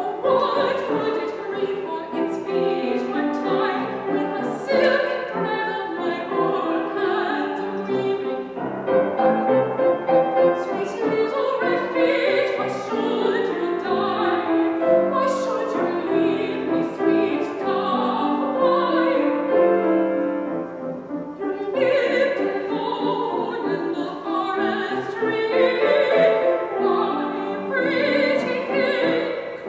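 Classical operatic singing with instrumental accompaniment, heard as a recording of an art song, with a brief break between phrases about two-thirds through.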